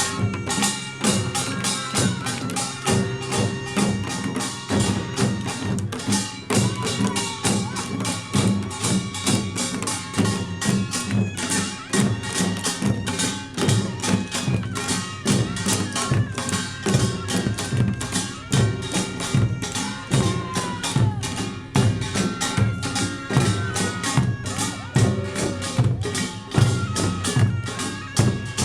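Korean pungmul farmers' band playing a fast, driving rhythm: kkwaenggwari small gongs clash in rapid strokes over steady beats of janggu and buk drums.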